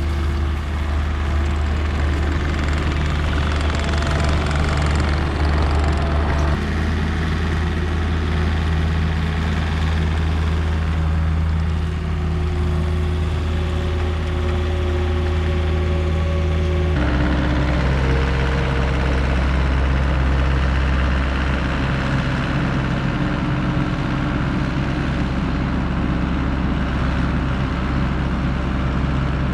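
Gehl RT65 compact track loader's diesel engine running steadily, its pitch shifting suddenly twice, about a fifth of the way in and a little past halfway.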